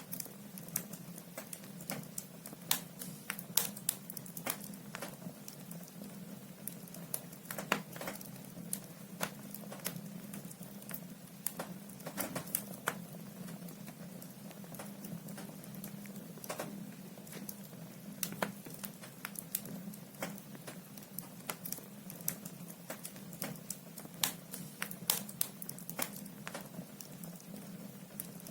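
Wood logs burning in a fireplace, crackling with irregular sharp pops and snaps over a steady low hum.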